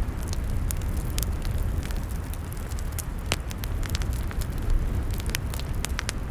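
Log fire crackling: irregular sharp pops and snaps from the burning wood over a steady low rumble.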